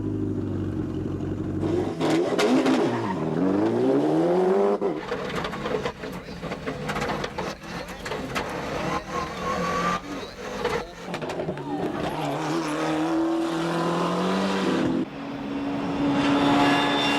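Rally car engine revving hard on a stage: the pitch drops steeply and climbs again about two to four seconds in, then runs at steadier high revs later, with many sharp clicks over it.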